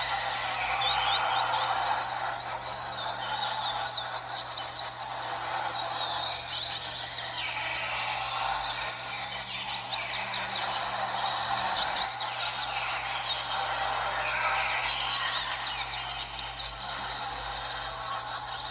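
Many double-collared seedeaters singing at once, their fast chirping phrases overlapping without a break. A steady low hum lies under them.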